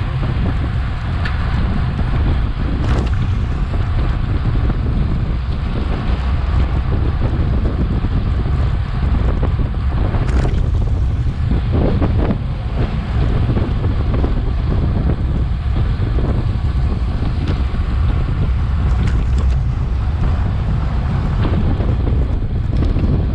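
Wind buffeting the microphone of a Garmin VIRB action camera riding on a bicycle at racing speed: a loud, steady rumble, with a few brief knocks or rattles.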